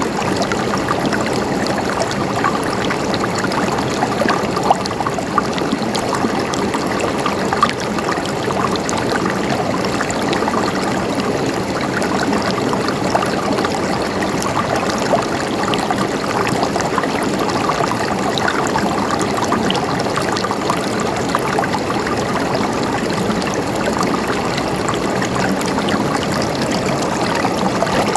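Water flowing and gurgling steadily and evenly, with small scattered splashes and drips through it.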